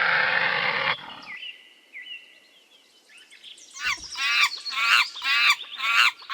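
Rhinoceros calling: a long breathy snort, then after a short lull a run of about five high, squeaking calls, each falling in pitch.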